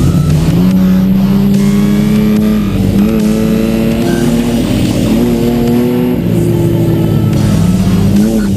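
Race car engine heard from inside its own cabin, revving up and easing off several times as the car accelerates and lifts through the pack, its pitch rising and falling in waves.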